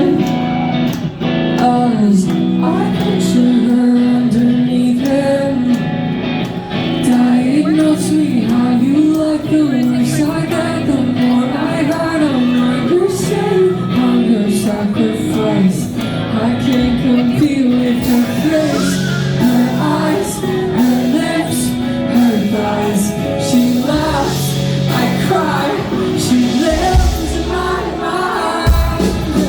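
Pop song with a woman singing a bending melody over a backing track with a steady beat; a heavier bass comes in near the end.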